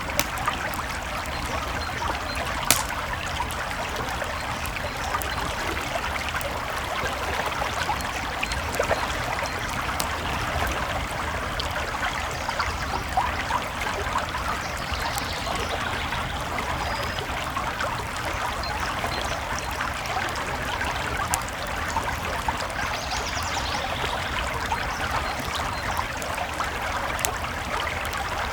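A creek babbling steadily, with a campfire crackling over it and giving occasional sharp pops; the loudest pop comes about three seconds in.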